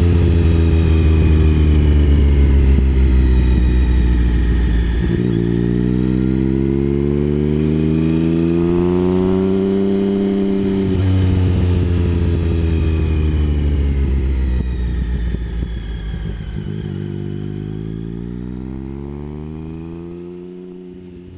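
Triumph Speed Triple 1050's inline three-cylinder engine through a Mivv aftermarket exhaust, its pitch sinking as the throttle closes, then climbing under acceleration, with sharp breaks about 5 and 11 seconds in, falling again and climbing once more. The sound fades away over the last several seconds.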